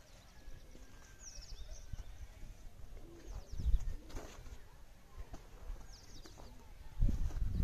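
High-pitched bird chirps in three quick runs about two to three seconds apart, over a low rumble that grows louder near the end.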